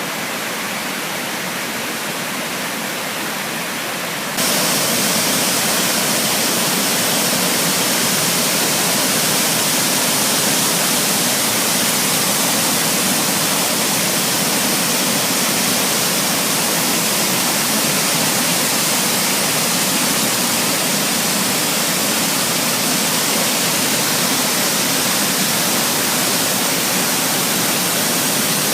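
Creek water rushing steadily over rocks, a constant even hiss; about four seconds in it jumps louder and brighter, then holds steady.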